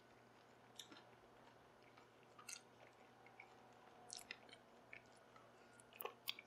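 Faint close-up mouth sounds of a man chewing and biting fried chicken wings: scattered soft smacks and clicks, with a louder bite about six seconds in.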